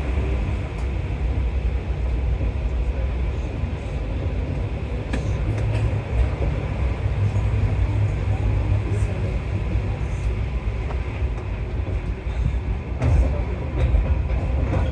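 Alstom MP14 rubber-tyred metro train running between stations in a tunnel, heard from inside the car: a steady low rumble of rolling and running gear, with a few scattered clicks.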